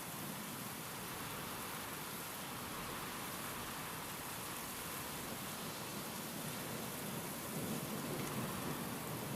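Steady heavy rain hissing down. A low rumble of thunder starts to build about three quarters of the way through.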